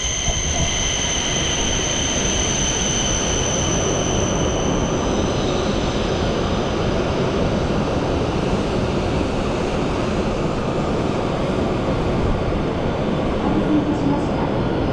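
Shinkansen bullet train running along the platform with a steady, loud rush of air and wheel noise; a high whine heard at first fades away within the first few seconds.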